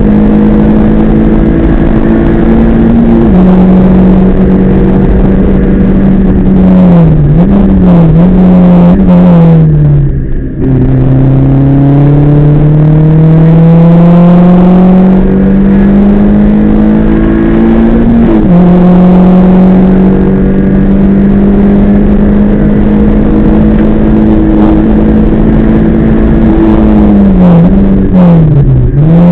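Rally car engine at full racing load, heard from inside the cockpit. It drops in pitch at a gear change about three seconds in, wavers through lifts and throttle blips on downshifts around seven to ten seconds in, then climbs steadily through a long gear. It shifts up again past the middle and winds down with more lifts and downshifts near the end.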